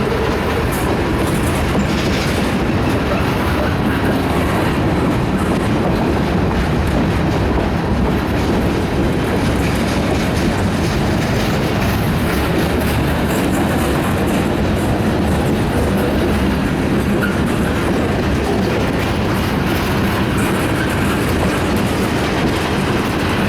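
Freight cars of a long mixed freight train rolling past close by, a steady loud rumble of steel wheels on the rails.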